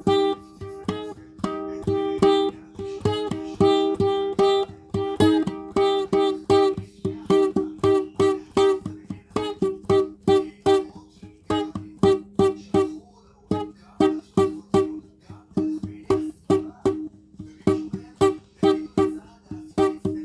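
Solo guitar music: a steady run of plucked notes.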